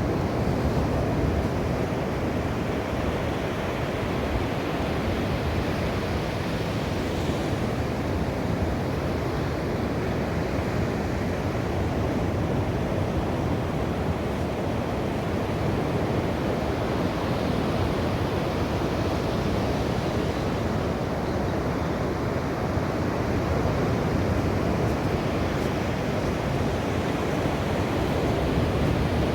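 Sea waves washing on a shore, heard as a steady, continuous rush of surf with little rise and fall.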